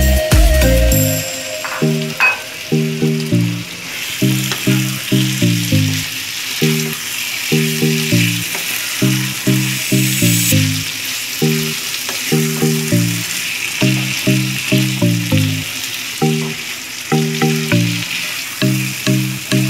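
Chunks of raw beef sizzling and frying in a pan of hot onion-spice paste as a wooden spatula stirs and turns them. Background music of short repeating melodic notes plays throughout, loudest alongside the sizzle.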